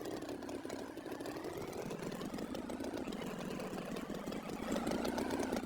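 Engine idling with a rapid, even rattle, its pitch slowly dipping and rising again.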